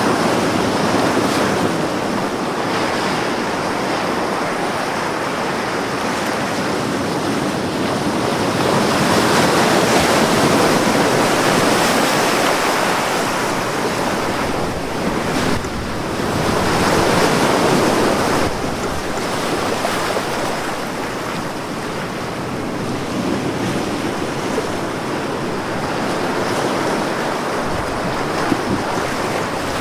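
Ocean waves breaking on a beach, a continuous wash of surf that swells and eases every several seconds, with some wind.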